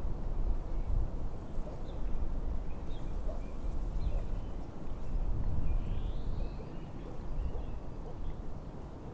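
Wind gusting with a low rumble, with faint, scattered short chirps of small birds.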